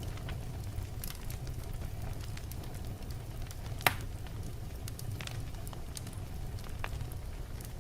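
Wood fire burning in a fireplace: a steady low rumble of flames with scattered crackles, and one sharp loud pop about four seconds in.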